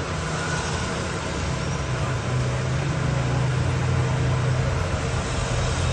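Steady hiss of rain with a motor vehicle's engine hum nearby. The hum builds about a second and a half in and eases off near the end.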